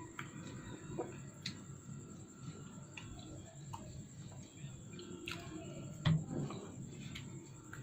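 Close-miked mouth sounds of a person chewing a soft, moist sandesh sweet: scattered wet clicks and lip smacks, with a louder smack about six seconds in.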